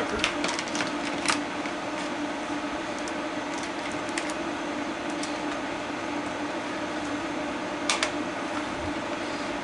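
Steady mechanical hum of the room under scattered clicks and taps of hand work on the plastic prop: zip ties and wire being pulled free. The loudest clicks come about a second in and again near eight seconds in.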